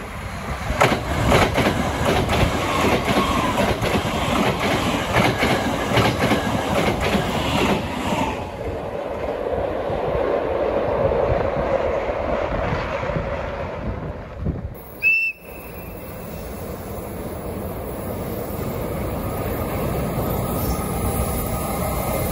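An electric express train passing close on the tracks, its wheels clicking rapidly over the rail joints, fading to a softer rumble after about eight seconds. After a short break about fifteen seconds in, the steadily growing rumble of an approaching electric freight locomotive and its container wagons.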